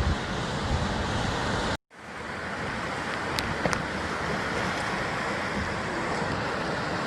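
Surf washing and breaking against a rocky basalt coastline, a steady roar of waves with some wind rumble. The sound cuts out completely for a moment about two seconds in, then the wash of the waves comes back.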